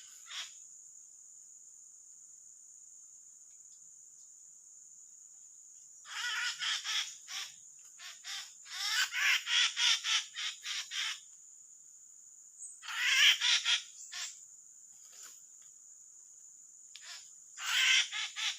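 A drongo caught on birdlime giving loud, harsh calls in four bouts of rapid notes, over a steady high insect drone.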